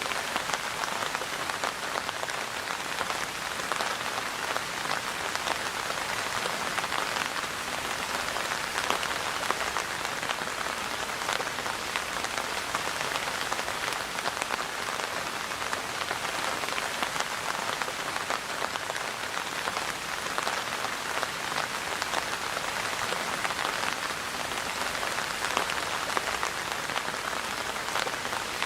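Steady rain falling: an even hiss with many small drop ticks, holding the same level throughout.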